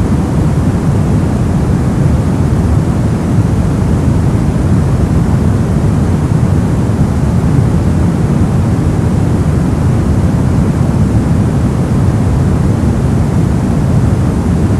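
Steady brown noise: an even, unbroken hiss-like rumble weighted heavily toward the low end, with the highs much quieter.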